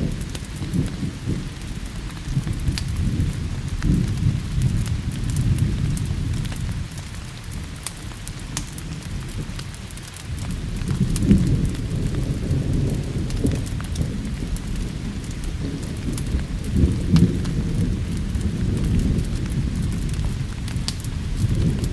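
Thunderstorm: rolling thunder rumbling low under steady rain. The rumble eases off a little before the middle and swells again just after it, with scattered sharp ticks on top.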